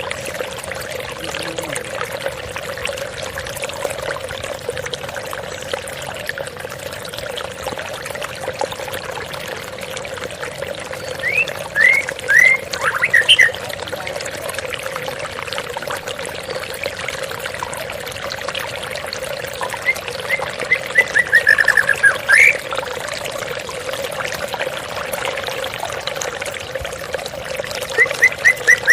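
Steady splashing rush of a small waterfall, with a white-rumped shama breaking in three times (about 11 s in, about 20 s in, and near the end) with short bursts of loud whistled song notes.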